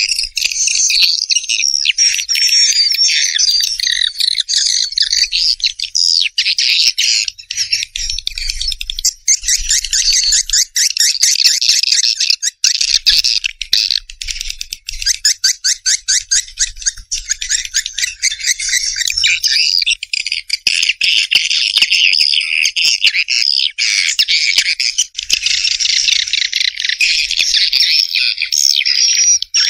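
Recorded swiftlet calls, the lure track played to draw swiftlets into a nesting house: a dense, unbroken chatter of high chirps and fast ticking trills from many birds layered together.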